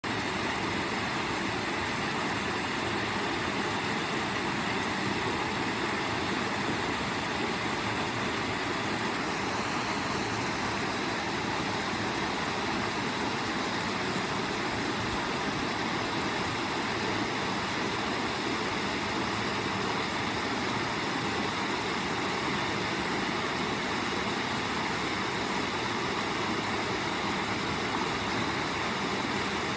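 Waterfall: falling water rushing in a steady, even murmur.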